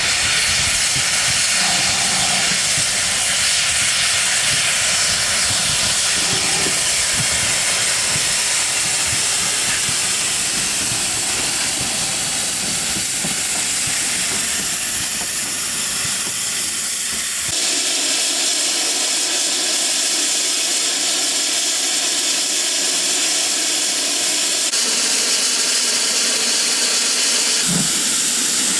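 Steam locomotive hissing steadily as steam escapes. The sound changes abruptly about two-thirds of the way through, losing its low rumble.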